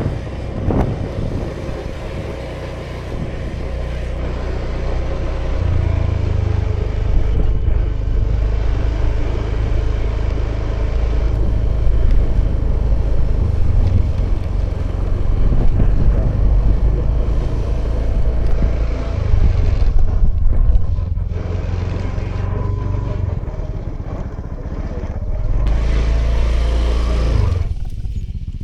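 Honda Vision scooter's single-cylinder engine running under way, heard from the rider's position. The engine note swells and eases several times with the throttle, and drops off sharply near the end as the scooter slows.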